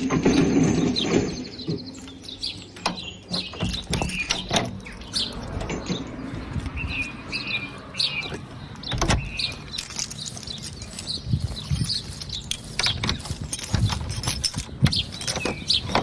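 Small birds chirping and singing in many short calls, over a low rumble that is loudest in the first second or so, with a few dull thumps.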